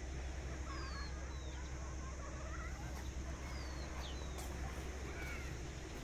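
Small birds chirping: several short, high descending whistles and a few brief warbled calls over a steady low rumble.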